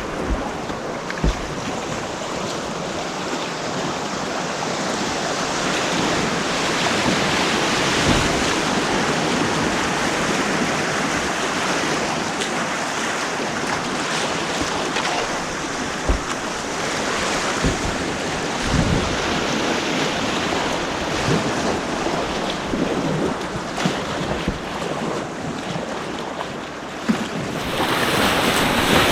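Rushing white water of an artificial white-water course, steady and loud, with a few brief low thumps.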